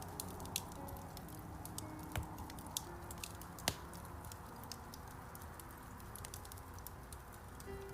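Wood fire crackling in a fireplace: a steady low rush with frequent small snaps and pops, the loudest pop a little before four seconds in.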